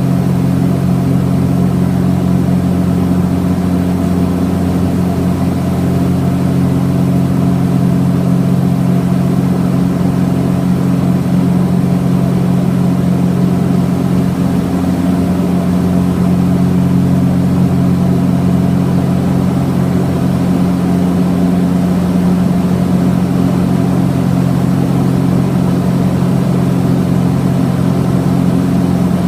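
Cessna 421's twin piston engines and propellers running steadily: an even, low hum of several constant tones that holds unchanged.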